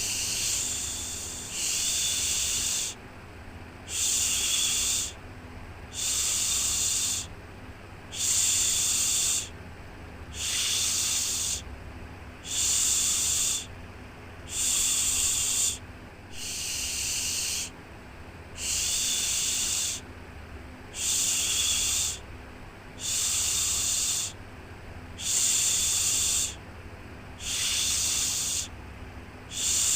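Rhythmic shushing, a drawn-out 'shhh' repeated about every two seconds with short gaps between, over a faint steady low hum.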